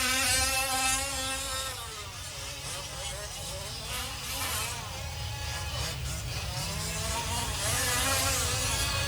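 Small two-stroke gas engines of 1/5-scale RC off-road trucks buzzing at high revs. One is loud at first, then its pitch drops and fades about two seconds in. Fainter engines rise and fall in pitch through the middle, and revving builds again near the end.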